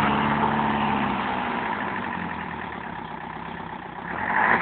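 DTC 640 forestry tractor's engine running, its sound easing off over the first few seconds, then a short louder surge near the end.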